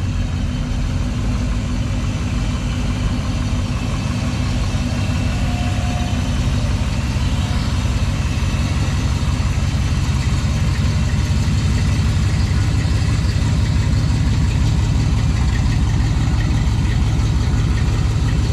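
A car engine idling steadily, a low unbroken rumble.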